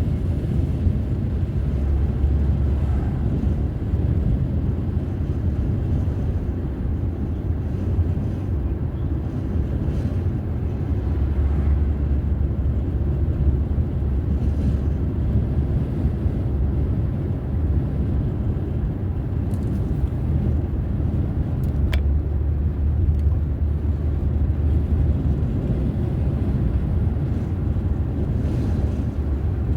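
A car's steady low rumble of engine and tyre noise while driving at a constant pace, with a single faint click about two-thirds of the way through.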